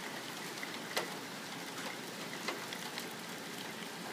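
Steady rain falling, an even hiss with a few sharp ticks of single drops scattered through it, the clearest about a second in.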